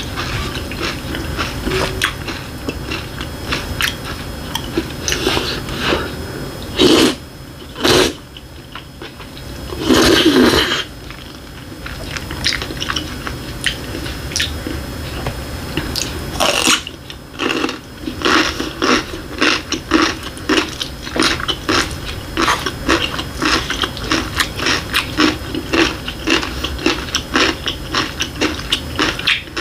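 Close-miked chewing with crisp crunches of chonggak (young radish) kimchi, the crunches coming thick and fast through the second half. A few louder single mouth sounds stand out about a quarter to a third of the way in.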